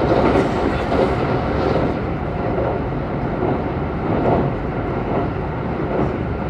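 Kintetsu 22000 series electric train heard from inside the car at speed: a steady wheel-on-rail rumble as it crosses a river bridge. An oncoming train rushes past at the start.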